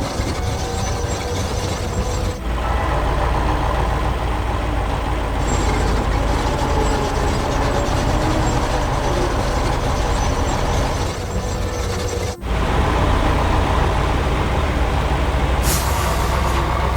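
Heavy construction machine running steadily with a deep engine drone, cut off sharply and restarting twice, about two seconds in and again about twelve seconds in.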